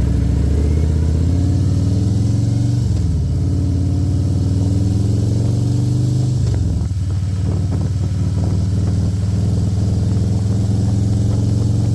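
Harley-Davidson Milwaukee-Eight V-twin engine running under way, climbing slightly in pitch and then dropping sharply at upshifts about three and six seconds in, holding steady afterwards.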